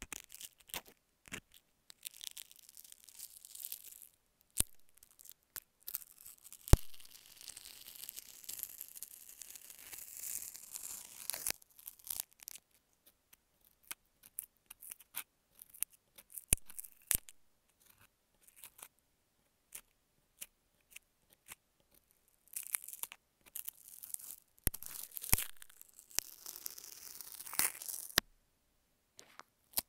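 A metal dental scaler scraping and picking very close to an earphone microphone: irregular sharp clicks and scratchy, hissing scrapes that come in stretches with short pauses between them.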